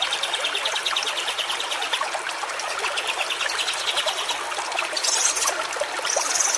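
Stream water trickling steadily, with a rapid, evenly pulsing high trill over it for much of the time and two short, very high-pitched sounds near the end.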